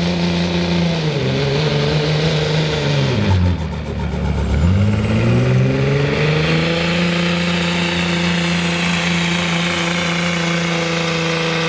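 Turbocharged diesel pickup truck engine running hard at high revs. The revs dip about a second in and drop further around three and a half seconds, then climb back from about five seconds and hold high. A high turbo whistle falls and rises with the engine.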